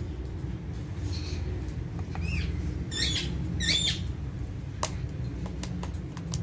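Indian ringneck parakeet giving four short squawking calls between about one and four seconds in, followed by a few sharp clicks, over a steady low hum.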